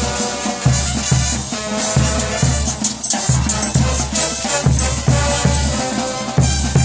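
Bolivian brass band playing cumbia, with a steady low drum beat under held horn notes and a shaker.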